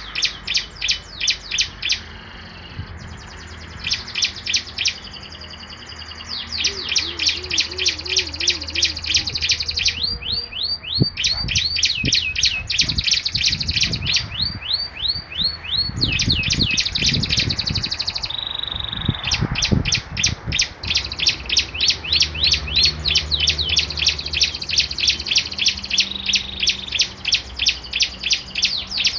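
Small songbirds singing in a duet: fast trains of sharp, high chirps, about seven a second, in phrases a few seconds long with short pauses between them.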